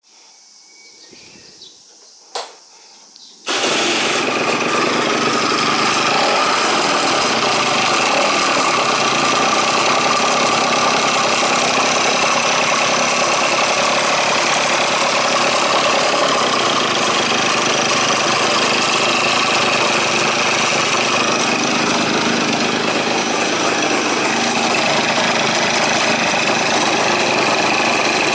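KYMCO Super 9 scooter's two-stroke engine catching suddenly a few seconds in, after a single click, then running steadily with the abnormal noise that turned out to come from a failed water pump bearing.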